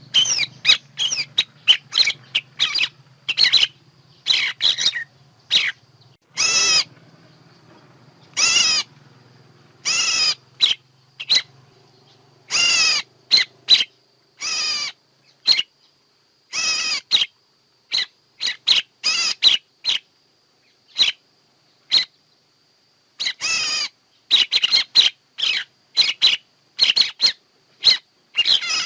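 Birds calling: a fast run of short chirps broken by harsher squawking calls of about half a second each, repeated throughout. This is the kind of bird call recording used as a lure in bird trapping.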